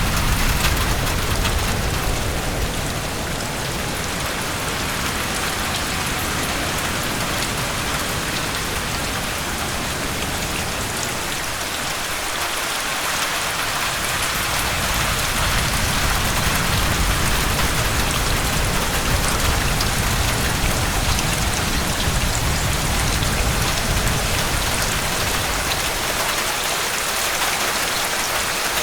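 Steady heavy rain, an even hiss with a low rumble beneath that eases twice and builds back.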